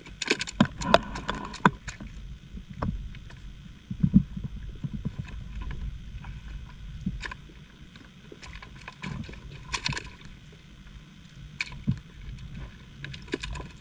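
Irregular clicks, knocks and scrapes from handling live giant freshwater prawns in a box. The sharpest clatter comes in the first couple of seconds, with scattered knocks after that, over a steady low rumble.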